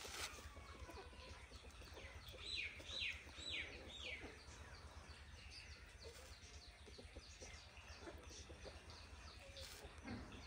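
Faint bird calls: four short falling notes about half a second apart a few seconds in, with scattered faint chirps throughout, over a steady low hum.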